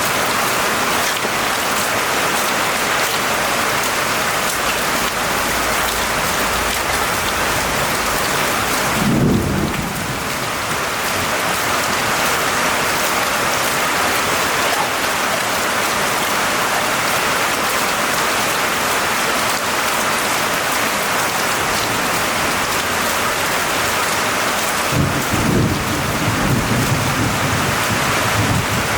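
Steady rain falling, with low rolls of thunder: a short one about a third of the way in and a longer one near the end.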